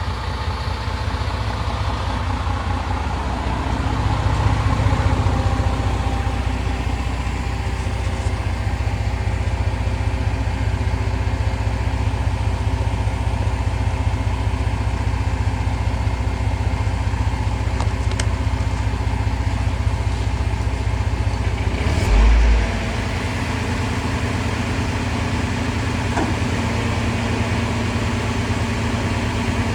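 Crane truck engine running steadily, a little louder about four seconds in, with a short low thump about twenty-two seconds in.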